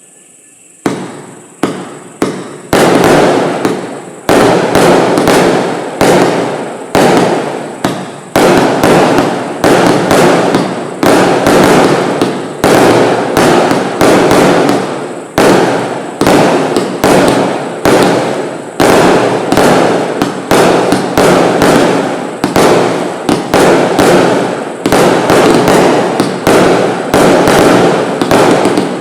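A 178-shot compound firework barrage cake (Bright Star Xtreme 'Pure Rage') firing: a rapid, unbroken run of loud shots, two or three a second, starting about a second in. The shots stop briefly near the end.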